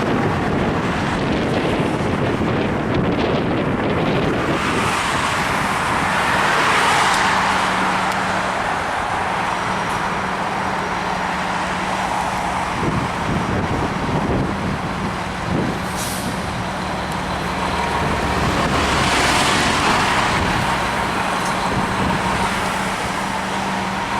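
Fire engine's diesel engine running with a steady low hum amid road traffic noise, which swells louder twice, about a quarter and three-quarters of the way through.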